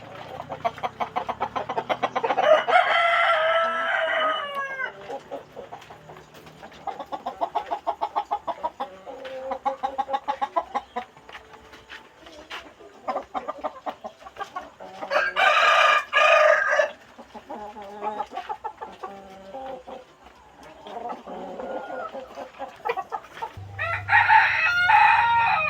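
Flock of kampung chickens clucking steadily, with roosters crowing three times: once a couple of seconds in, once in the middle and once near the end.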